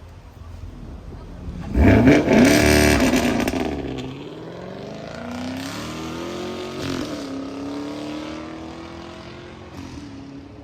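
A car engine revs hard with a sudden loud burst about two seconds in, then pulls away, its pitch climbing, dropping briefly at a gear change and climbing again as it fades.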